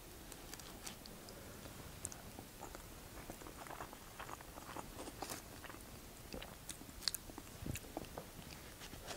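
Faint chewing and soft wet mouth sounds of someone eating a wet burrito, with small scattered clicks and scrapes of a knife and fork cutting into it in a foam takeout box.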